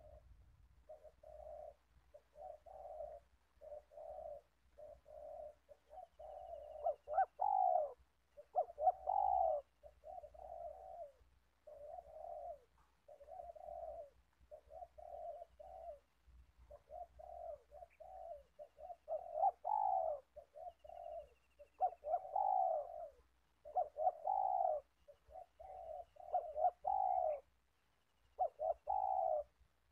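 Spotted dove cooing, a long run of short repeated coos with several louder phrases among them and a brief pause near the end.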